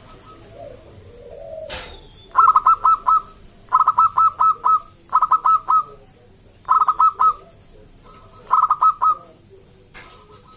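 Zebra dove (perkutut) cooing: five short phrases of quick, repeated coo notes, each about half a second long and about one and a half seconds apart. A single sharp click comes just before the first phrase.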